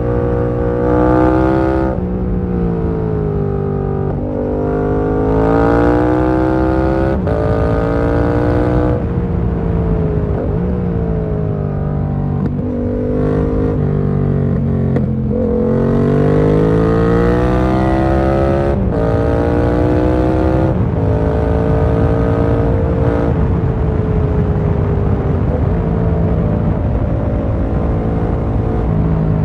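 Yamaha MT-07's parallel-twin engine heard from the rider's seat, accelerating up through the gears. The pitch climbs, drops at each upshift, and falls away when the throttle is rolled off, over a steady rush of wind.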